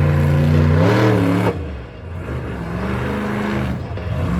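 Monster truck engine revving hard, rising in pitch and cutting off sharply about a second and a half in, then running again at lower revs.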